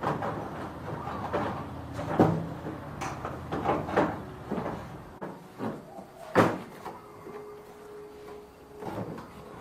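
Hard knocks and clatter of parts being handled, the loudest about two seconds in and again past the middle. A steady low hum runs underneath and stops about halfway through.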